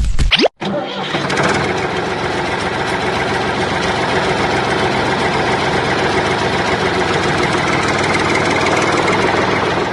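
A short rising whoosh, then a tractor engine running steadily at an even speed from about a second in.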